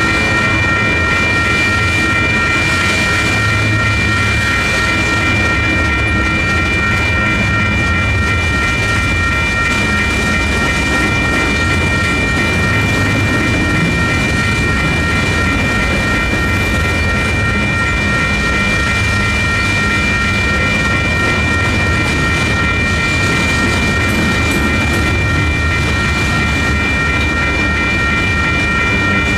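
Freight train tank cars rolling steadily through a grade crossing, wheels rumbling and clacking over the rails. Over this, the crossing's electronic warning bells ring without a break, since the gates stay down while the train passes.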